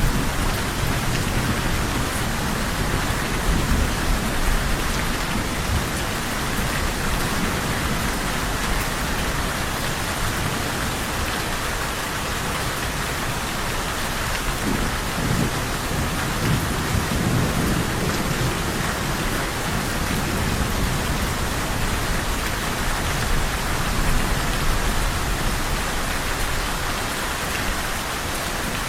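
Steady heavy rain falling on a surface, with low rolls of distant thunder swelling a few times.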